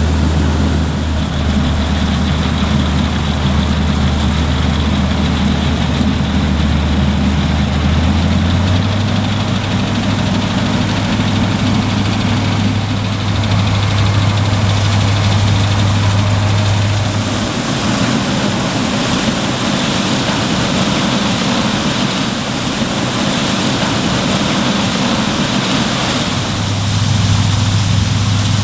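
Farm machinery diesel engines running steadily under load. The engine note changes abruptly three times, about a third of the way in, around two thirds and near the end, as one machine gives way to another.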